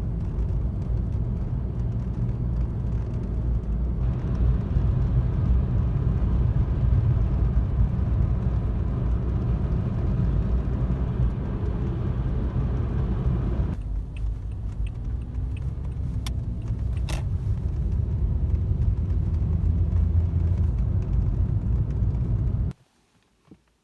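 Car driving, a steady low rumble that changes character a couple of times, with a few sharp clicks in the middle, cutting off abruptly near the end.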